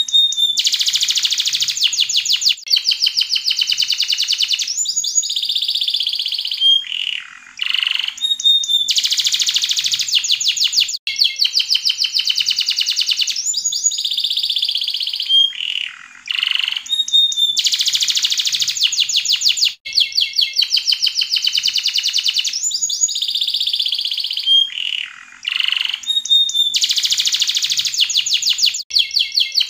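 Yellow domestic canary singing a long, continuous song of rapid trilled rolls, broken by sweeping whistled glides and a few short pauses.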